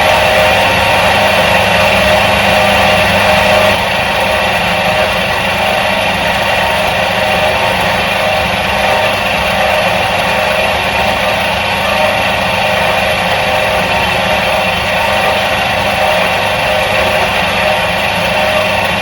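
Electric motor from a 1977 Soviet washing machine running steadily: a continuous hum with several steady tones over it. It drops slightly in loudness about four seconds in, then runs on evenly.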